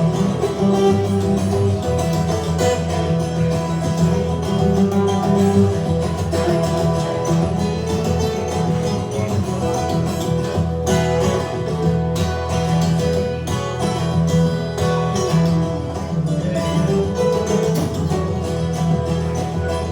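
Live acoustic music without vocals: plucked guitar playing a steady instrumental passage over a full low end.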